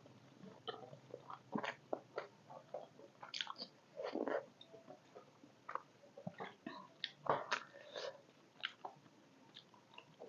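Close-up chewing and mouth sounds of someone eating steamed beef momos, with many short, irregular clicks and soft wet smacks.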